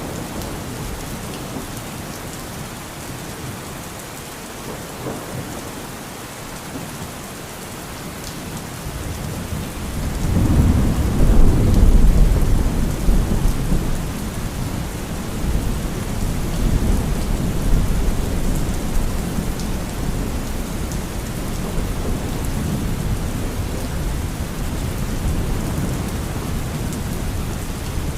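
Steady heavy rain falling, with a long roll of thunder that swells in about a third of the way through, peaks a few seconds later and rumbles on more softly under the rain.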